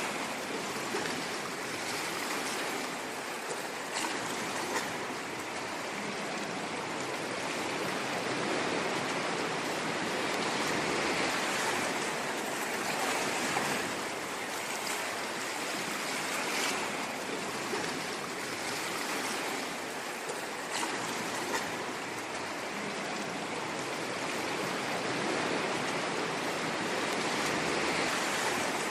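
Ocean waves washing on a shore: continuous surf noise that swells and eases gently every few seconds.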